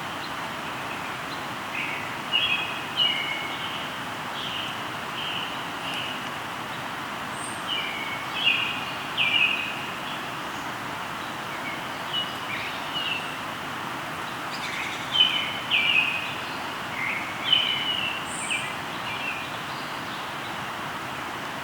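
Songbirds chirping in short runs every few seconds over the steady rush of a flowing river.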